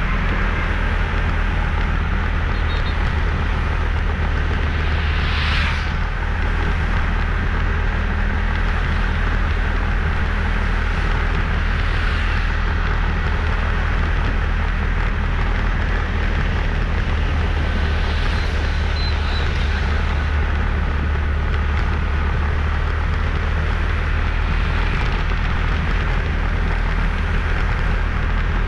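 Small motorbike engine running steadily at cruising speed, with continuous road and wind noise from riding.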